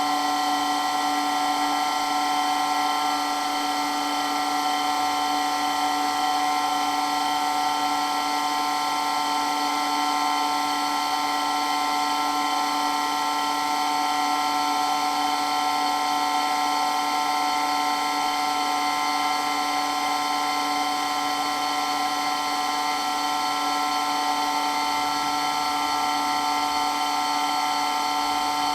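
Water pump running steadily, giving an even whine of several fixed tones over a hiss.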